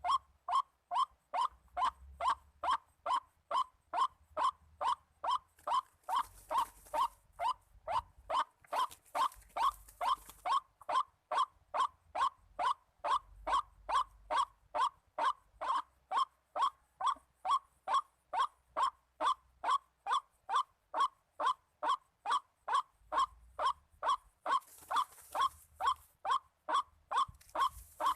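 White-breasted waterhen call: a monotonous, croaking note repeated very evenly, about two a second without a break.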